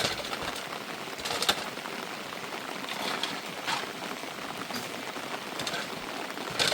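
Steady rain falling, with scattered sharper hits of drops landing at irregular moments.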